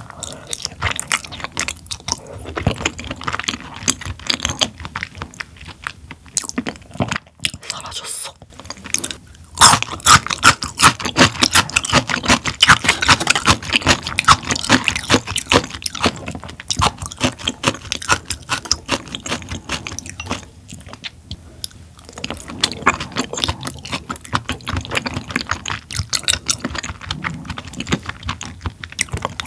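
Close-miked chewing of raw tuna sashimi: a dense run of small wet mouth clicks and smacks, loudest in the middle.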